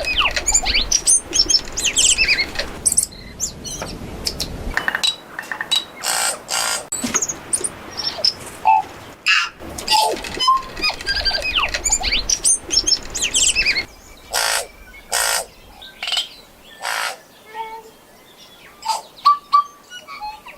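Tui singing: a varied, quick run of clicks, gliding whistles and buzzy notes, growing sparser with longer gaps in the last few seconds.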